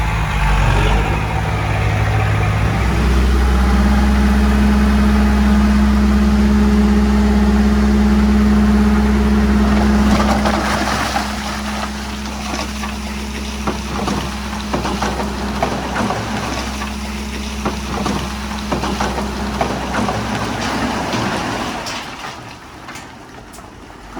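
Heavy diesel earthmoving machine running loud and steady under load, then easing off about ten seconds in. Irregular clanking and knocking follow, and the sound fades near the end.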